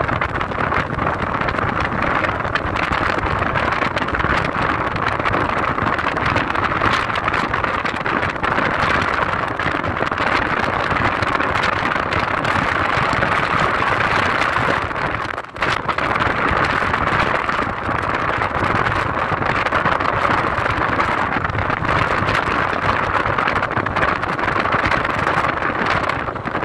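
A car driving along a forest road: steady tyre and engine noise, with a brief dip about fifteen seconds in.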